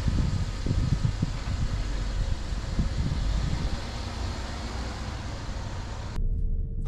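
Car running, with steady engine and road noise heard from inside the cabin. About six seconds in it cuts abruptly to a much quieter steady hum.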